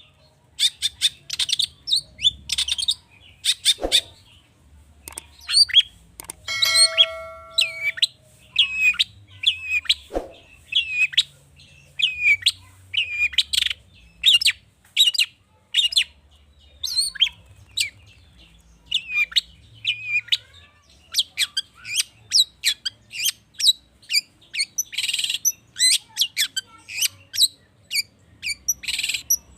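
Long-tailed shrike (cendet) singing a fast, varied string of short, sharp high notes, with one longer held note about seven seconds in. The notes come quicker in the second half.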